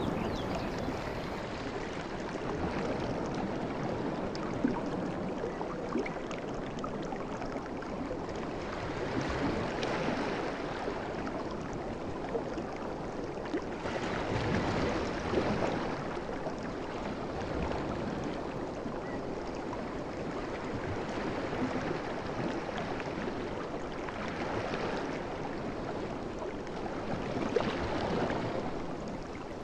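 Sea waves washing up on a beach: a steady rush of surf that swells and eases as each wave comes in, every several seconds, with a couple of brief sharp clicks.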